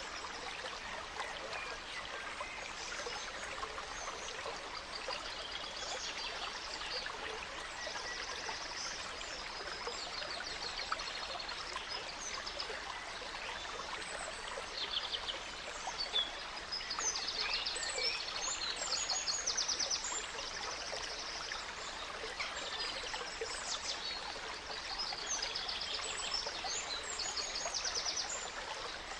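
Gentle stream running steadily, with forest songbirds chirping and singing quick trills over it, the birdsong busiest from about halfway through.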